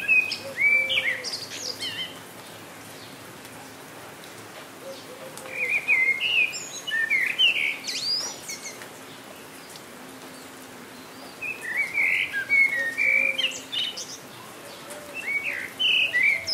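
A songbird singing short, quick warbled phrases, four times with pauses of a few seconds between them, over a steady hiss of falling rain.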